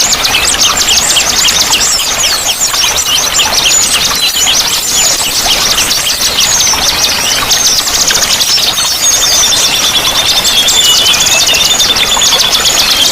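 Many small songbirds singing at once: a dense, unbroken mix of rapid high chirps, trills and short whistled phrases, over a steady hiss of running water.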